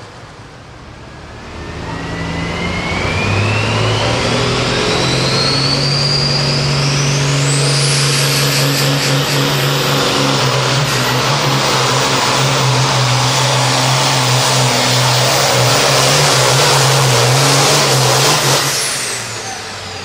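Hot farm class pulling tractor's turbocharged diesel engine at full throttle on a pull, its turbo whine rising steadily over the first several seconds as the run builds. The engine runs hard and steady, then drops off sharply near the end as the throttle is cut, the whine falling away after it.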